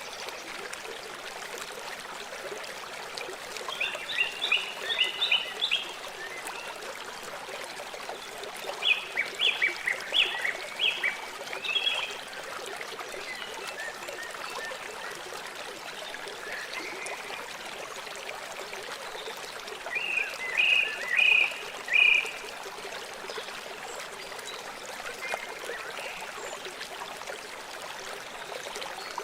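River water flowing with a steady rush. Three bursts of rapid, short, high chirping calls rise above it, about four, ten and twenty-one seconds in.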